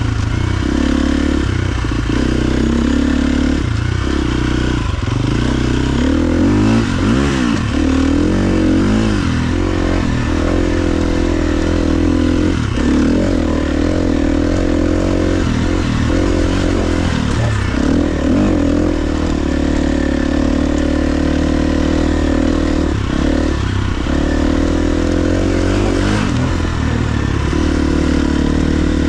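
KTM 350 XC-F dirt bike's single-cylinder four-stroke engine running while being ridden, its pitch rising and falling as the throttle is opened and closed, with quick revs and dips in several places.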